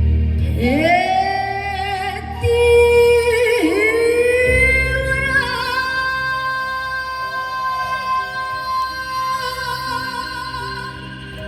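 A woman singing a Korean folk song in long held notes, sliding up into each note and adding vibrato, over a recorded accompaniment with a low bass. The last note starts about five seconds in and is held almost to the end.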